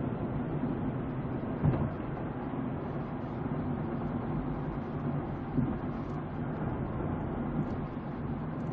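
Steady engine and road noise of a moving vehicle, recorded with a narrow, muffled sound. It has a brief louder bump about two seconds in and another a little past the middle.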